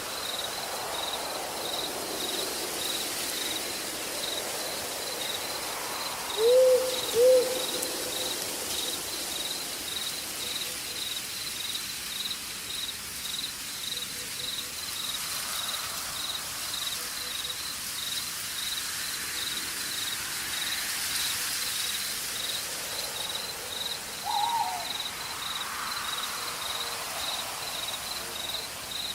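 Night forest ambience: an owl hoots twice in quick succession about six seconds in, and once more, higher, near the end. Under it an insect chirps steadily at an even pulse, over a soft hiss.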